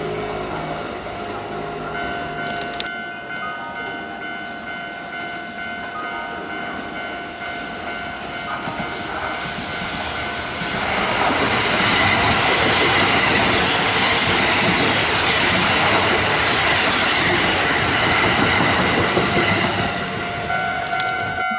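Kintetsu 80000 series 'Hinotori' electric express train passing at speed, its wheels clacking over the rail joints. The noise is fainter at first, then swells loud about ten seconds in and holds for about ten seconds before it fades.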